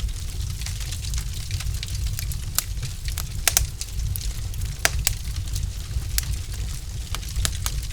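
Wood fire in a fireplace crackling: irregular sharp pops and snaps from the burning logs, a few each second, over a steady low rumble. Two louder snaps come about halfway through.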